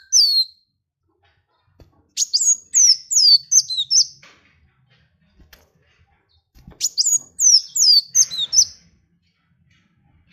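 A songbird singing two rapid phrases of high, downward-sweeping whistled notes, each phrase about six or seven notes over roughly two seconds, the first about two seconds in and the second about seven seconds in.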